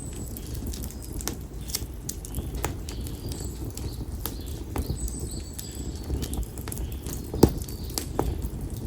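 Split konara oak firewood burning in an open campfire, crackling with irregular sharp pops and snaps, one louder pop about seven and a half seconds in, over a low steady rumble. A thin, high bird call sounds at the start and again around five seconds in.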